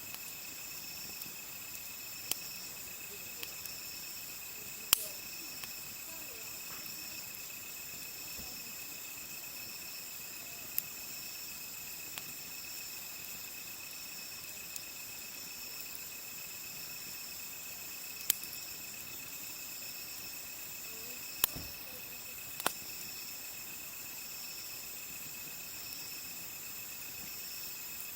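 Insects chirping steadily at several high pitches, one of them pulsing, while a wood fire gives a handful of sharp pops and crackles, a few of them loud.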